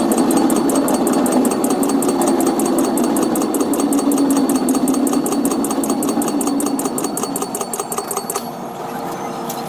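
Caltrain commuter train running, a steady mechanical hum, with rapid evenly spaced clicks several times a second that stop about eight and a half seconds in.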